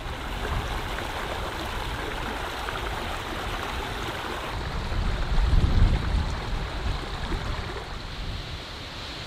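Water rushing steadily in a stream, with a gust of wind buffeting the microphone about five to six seconds in.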